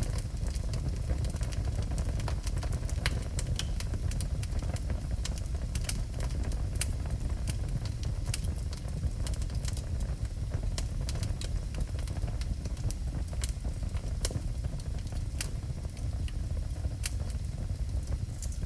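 Wood fire burning in a fireplace: a steady low rush with frequent sharp pops and crackles scattered throughout.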